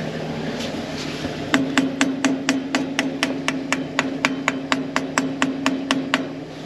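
Rapid, light, even tapping on a tractor's carburettor float bowl, about twenty taps at four to five a second, starting about a second and a half in and stopping near the end, over a steady low hum. The bowl is tapped to free a suspected fuel blockage, as the engine seems not to be getting fuel.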